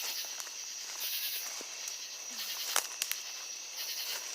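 Insects outdoors: a steady high-pitched drone with a pulse of hiss about every second, and a few sharp crunches of footsteps on glass and gravel around the middle.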